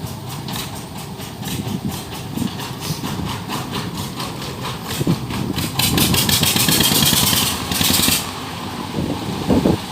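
An engine-driven machine running, with a fast, regular clatter and a louder hissing rush from about six to eight seconds in.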